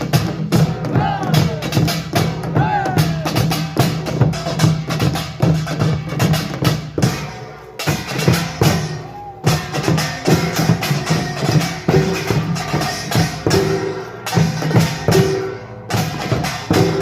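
Korean pungmul percussion band playing a dense, driving rhythm on gongs and drums, with a brief lull about seven seconds in.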